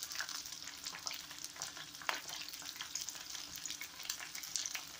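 Chicken wings frying in oil in a frying pan: a steady sizzle with scattered small crackles and pops, and one sharper click about two seconds in.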